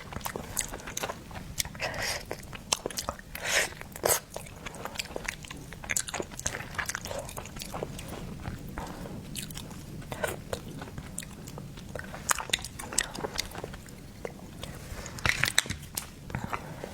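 A person biting and chewing seafood with their mouth: a dense run of wet smacks and crunchy clicks, with a few louder bites.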